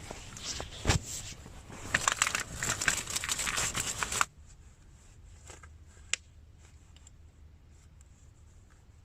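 Rustling, crinkling handling noise with a thump about a second in. It cuts off abruptly a little after four seconds, leaving quiet with a few small clicks and one sharp click.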